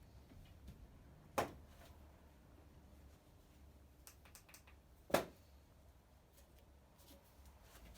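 Two sharp knocks of hard objects, about four seconds apart, with a few faint clicks in between and a faint low hum underneath.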